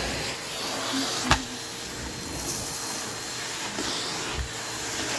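Vacuum cleaner running steadily, with one sharp click about a second in.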